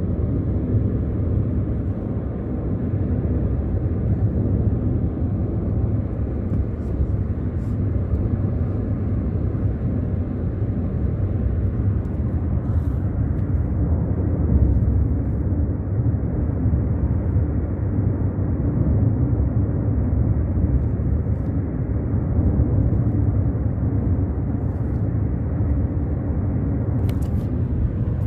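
Steady road and engine rumble of a car driving at speed on a highway, heard from inside the cabin.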